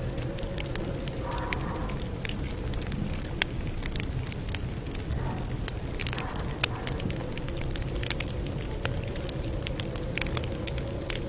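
Campfire crackling, with sharp irregular pops and snaps of burning wood over a steady low rumble of flame.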